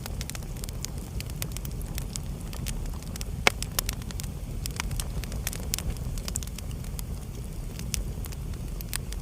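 Wood fire burning in a fireplace: irregular sharp crackles and pops over a steady low rumble of the flames, with one louder pop about three and a half seconds in.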